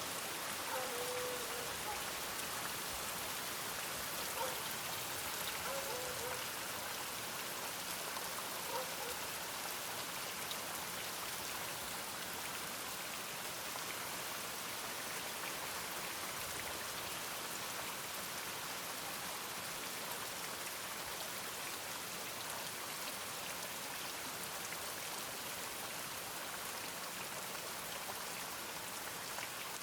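Steady, even rain falling. Over it, in the first nine seconds, come a few faint short pitched sounds.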